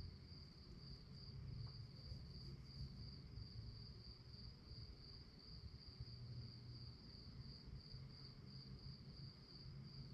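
Crickets chirping in a faint, continuous high-pitched trill on one steady pitch, over a low rumble.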